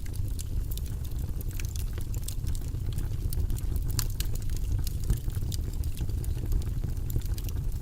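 Wood fire crackling: many small, sharp pops and snaps scattered irregularly over a steady low rumble of the burning flames.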